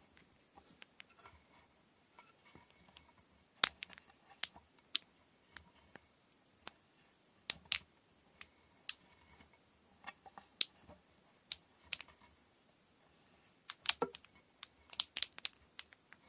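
Irregular sharp clicks and light taps from handling kumihimo braiding tools and cotton thread, with the loudest knocks about a quarter, half and most of the way through.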